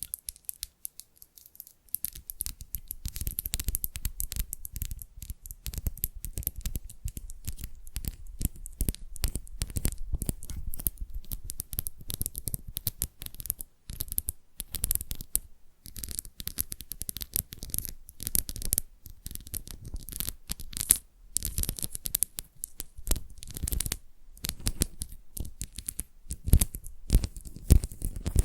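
Fingernails scratching and tapping fast on a tile, close to the microphone, in a dense run of strokes with a couple of brief pauses.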